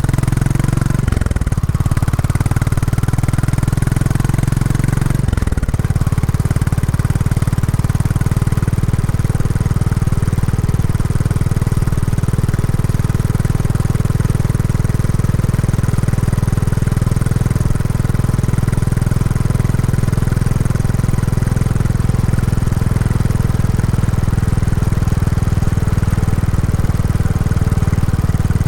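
Royal Enfield Classic 350's single-cylinder engine running through its stock exhaust while the bike is ridden during break-in. The engine note drops briefly twice, about a second in and about five seconds in, then runs steady.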